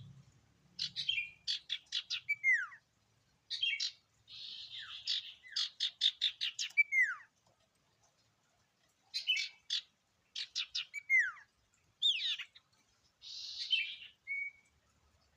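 Sirtu, a cipoh-type songbird, singing in repeated phrases. Each phrase mixes quick chirps, buzzy rasps and clear whistles that slide down in pitch, with short pauses between phrases.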